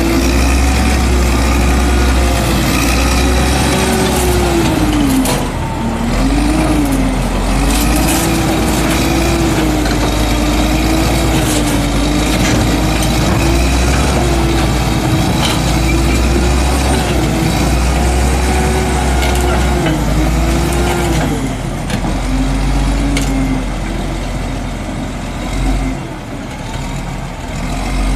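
Caterpillar D7H bulldozer's diesel engine running, its pitch repeatedly rising and falling as engine speed changes, with a heavy low rumble; it eases off near the end.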